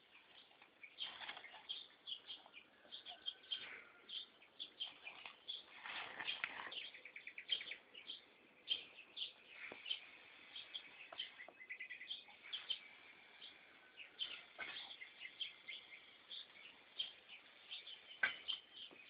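Small birds chirping faintly: many short, irregular high chirps with a quick trill, broken by a few brief rushing noises.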